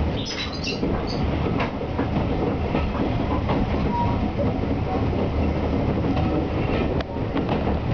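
Steam-hauled passenger train running, heard from one of its carriages: a steady rumble of the coach on the rails with occasional sharp clicks of the wheels over rail joints, and a few short high squeaks in the first second or so.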